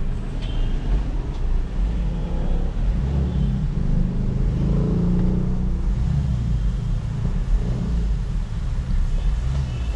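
Car engine revved while parked for a PUC exhaust-emissions test, its low drone swelling around the middle.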